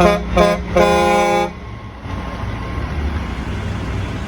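Truck horn sounding two short blasts and then a longer one, followed by a steady low rumble of engines.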